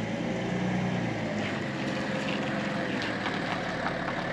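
BMW 5 Series engine running at low revs while towing a loaded car trailer, with scattered clicks and rattles from about a second and a half in.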